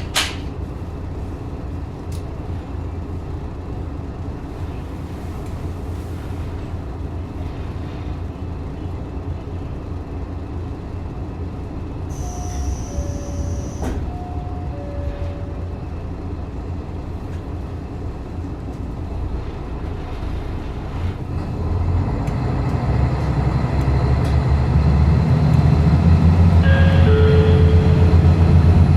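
Running sound heard from inside a diesel railcar: a steady low engine and rail rumble. A short two-note tone sounds twice partway through. From about two-thirds of the way in, the engine grows steadily louder as it works harder under power.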